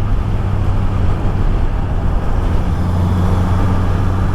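Honda CB650R inline-four engine running steadily at road speed, heard from inside the rider's helmet over a steady haze of wind and tyre noise.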